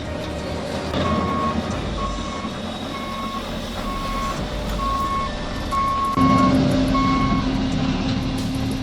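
Heavy machinery's reversing alarm beeping at a steady pace, about once a second, over diesel engine noise. Near the end the engine rises to a louder, steady drone.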